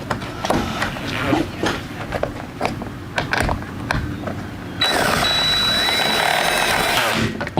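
Metal hardware clicking and knocking as it is handled and fitted, then a power drill running for about two and a half seconds, from about five seconds in.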